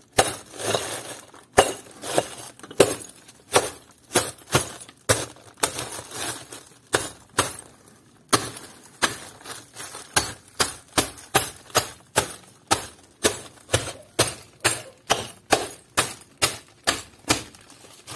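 Glass bottles under a cloth bag being smashed by repeated blows, each strike a sharp crunch of breaking glass. The blows come irregularly at first, pause briefly midway, then settle into a steady run of about two or three a second.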